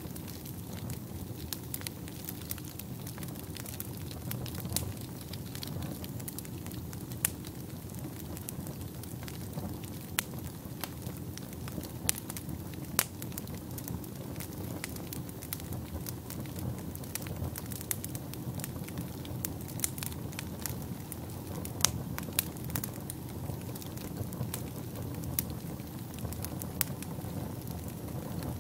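Fire burning in a fireplace: a steady low rushing sound broken by frequent sharp crackles and pops at irregular intervals.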